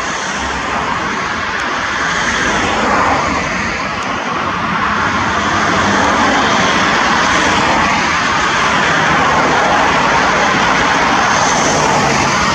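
Airbus A320 jet airliner's engines heard as a loud, steady rushing noise, swelling a little about halfway through.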